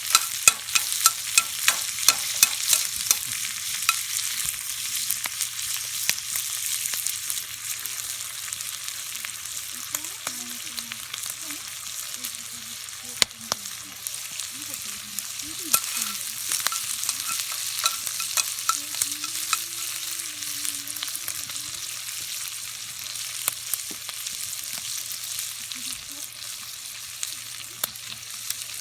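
Pork stomach (gatsu) sizzling as it fries in a cast-iron Uniflame 7-inch skillet over a campfire, a steady hiss broken by frequent sharp clicks and taps, thickest in the first few seconds.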